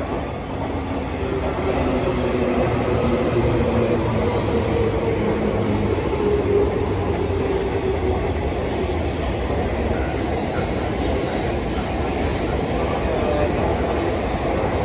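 JR 185 series electric train running past on the rails: a steady rumble of wheels and traction equipment, with a thin high squeal about ten seconds in.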